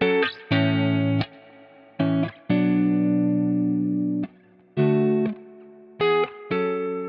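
Guitar chords played through a tape delay plugin (Beatskillz Echorium). They come as a rhythm of short stabs and longer held chords, each cut off sharply and trailed by a quieter echo that fades away.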